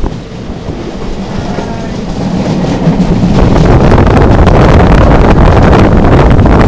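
Passenger train running, heard from an open carriage window: steady rumbling and rattling of the carriage on the track with wind rushing over the microphone. It grows louder about three seconds in as the train rolls out onto a bridge over water.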